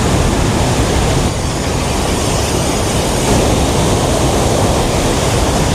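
Steady loud rush of a waterfall, a continuous roar with a heavy low rumble.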